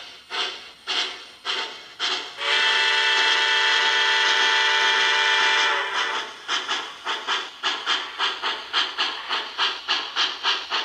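Sound system of an MTH HO-scale Southern Pacific cab-forward steam locomotive model: steam exhaust chuffs at about two a second, then a long chord steam whistle held for about three seconds. After the whistle the chuffs resume and quicken as the locomotive picks up speed.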